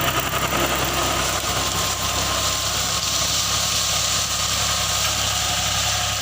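FIAT 480 tractor's diesel engine running steadily.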